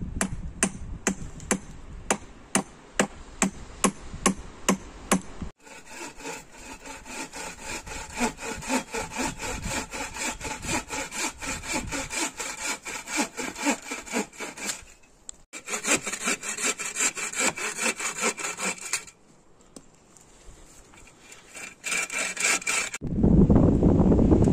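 Hand saw cutting wood in quick back-and-forth strokes, about two to three a second at first, then in several denser runs broken by short pauses. Near the end a loud low rushing noise takes over.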